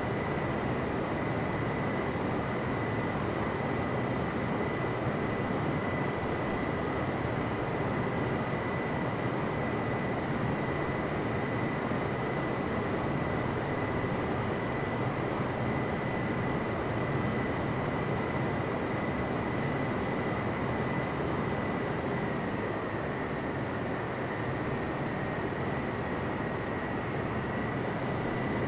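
Boeing 777-300ER's GE90 jet engines: a steady rushing noise with a constant high whine that dips slightly past the middle.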